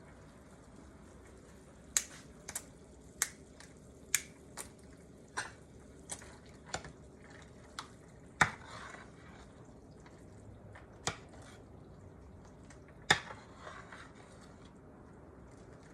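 A spoon clinking against the soup pot about a dozen times at irregular intervals while the soup is stirred, the loudest knocks about eight and thirteen seconds in, over a faint steady hiss.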